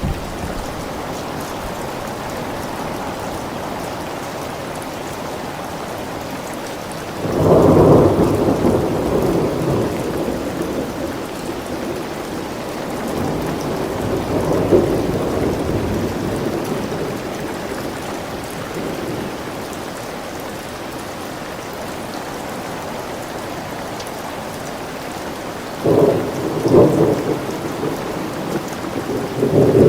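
Thunderstorm: steady heavy rain with rolling thunder. A loud peal of thunder rumbles about seven seconds in, a softer roll follows a few seconds later, and sharp cracks of thunder come near the end.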